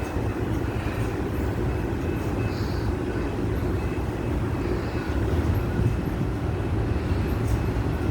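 Freight cars of a manifest train rolling past at moderate speed, their steel wheels giving a steady low rumble on the rails, with faint high ticks and squeals.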